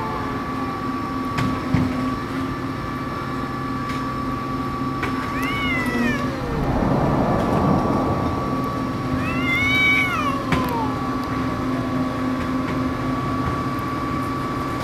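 Cats squaring off for a fight, trading long, drawn-out yowls that rise and fall in pitch: one call about six seconds in, followed by a rough, noisy stretch, and another around ten seconds in.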